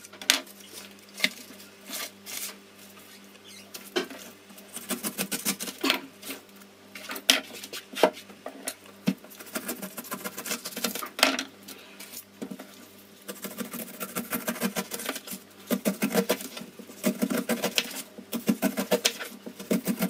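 Kitchen knife cutting the tough rind off a fresh pineapple on a cutting board: a run of short, crisp cutting and scraping strokes at an uneven pace.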